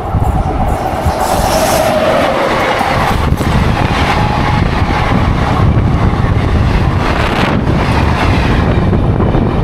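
Indian Railways express train of old ICF coaches running at speed, heard from aboard: a loud, steady rumble and rattle of wheels on the track, with two brief dips about three and seven and a half seconds in.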